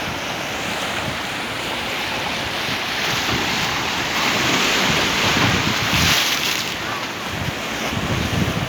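Large sea waves breaking and washing up the shore at high tide, a steady surf rush that swells louder a few seconds in, with wind buffeting the microphone.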